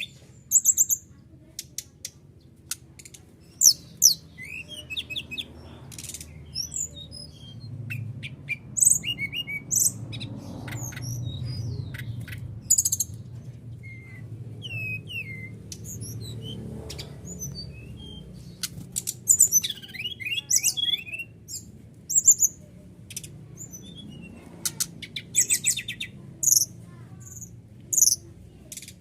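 Brown-chested jungle flycatcher (SRDC) song: clusters of short, high chirps, quick trills and slurred whistled notes, repeated throughout over a faint low hum.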